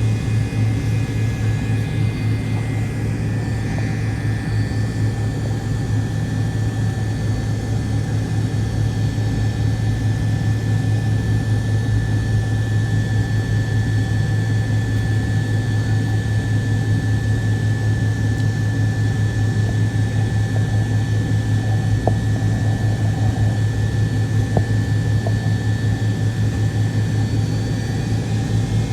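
Rear-mounted Pratt & Whitney JT8D turbofans of a McDonnell Douglas MD-88, heard from inside the cabin: a loud, steady low drone with a pulsing beat and thin steady whines above it.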